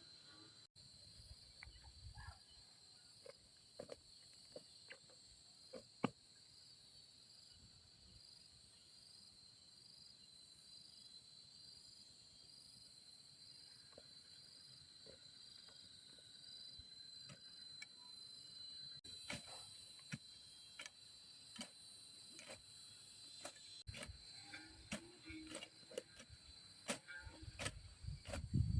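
Insects chirring in a steady, high-pitched chorus with a regular pulse, with scattered sharp clicks and knocks that grow busier in the second half.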